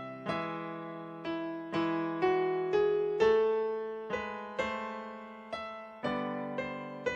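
Solo piano playing slow chords, a new chord struck about every half second and ringing away before the next.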